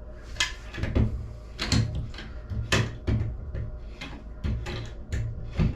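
Hard parts being handled: a removed tub spout and its replacement knocked and set down, giving about a dozen separate sharp clicks and knocks, some with a dull low thud.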